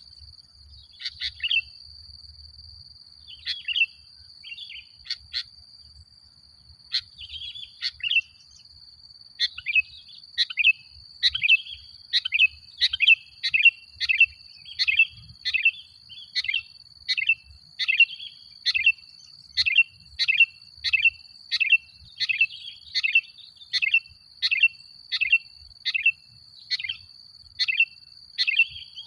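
Male sooty-headed bulbul (kutilang) singing: scattered short calls at first, then from about ten seconds in a steady, regular run of short downward-swept notes, about three every two seconds. A faint steady high whine runs underneath.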